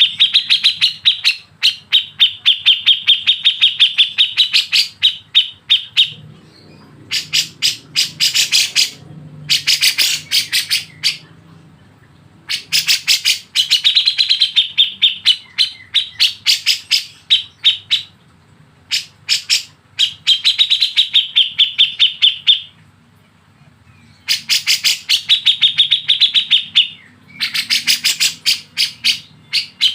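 Songbird song for a masteran tutor recording: loud phrases of rapid, evenly repeated chirping notes, several phrases of one to four seconds each separated by short pauses, some phrases sharper and brighter than others.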